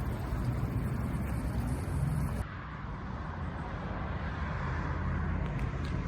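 2002 Mitsubishi Canter (Fuso) dump truck's 4.2-litre four-cylinder diesel engine running steadily with a low rumble. About two and a half seconds in, the sound changes abruptly and the high hiss drops away.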